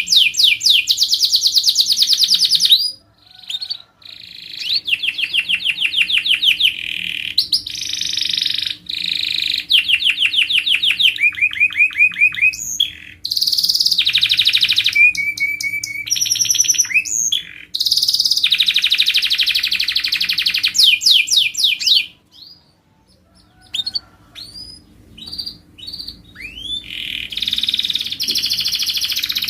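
Canary singing phrase after phrase of fast trills, each a rapid run of repeated rising notes. There is a short break about three seconds in, and a longer, quieter stretch of scattered single notes about three-quarters of the way through before the trills return.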